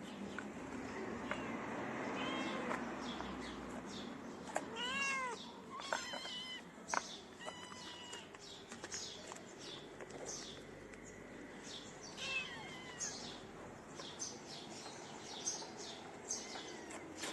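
Kitten meowing: a handful of short, high mews that rise and fall in pitch, the clearest about five seconds in and a few more spread through the rest, over faint short high-pitched ticks or chirps.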